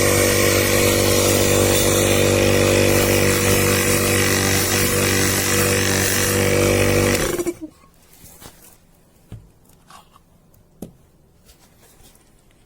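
Mains-powered electric motor running loudly with a steady hum and noise, switched off about seven seconds in and winding down quickly, followed by a few faint clicks.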